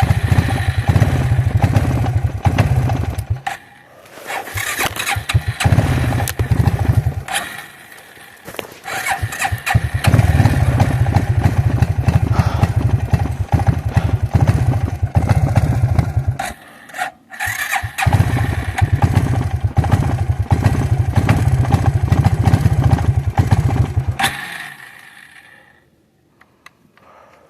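Suzuki King Quad ATV engine revved hard at high throttle in four long bursts with short drops between, the quad stuck and spinning its wheels in snow while trying to back out and climb. The engine falls quiet near the end.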